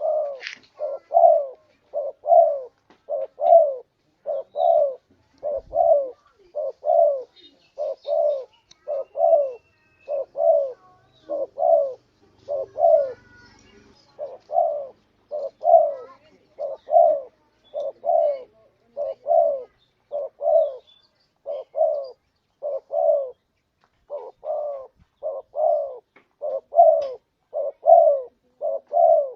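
Spotted dove (tekukur) cooing: a steady run of short, falling coo notes, about two a second, a call used to lure doves.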